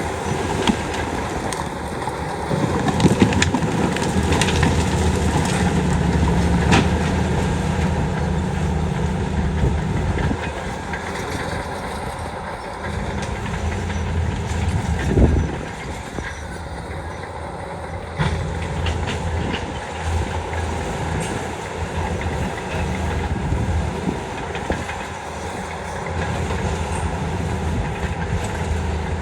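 Heavy diesel earthmoving machinery running, its low engine note swelling and easing with load, with scattered metallic clanks and knocks.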